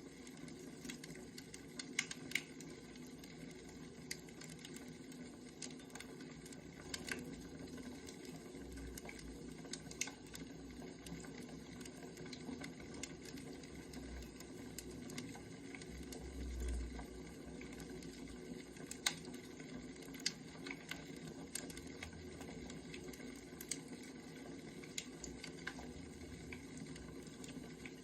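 Wood fire crackling, with irregular sharp pops over a steady low hiss.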